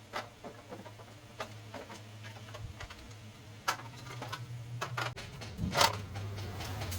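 Irregular light clicks and taps of small metal parts and tools being handled, with a louder knock just before six seconds in, over a steady low hum.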